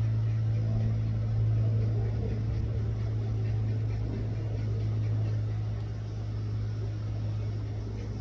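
Steady low engine drone, a constant hum with a rough rumble over it.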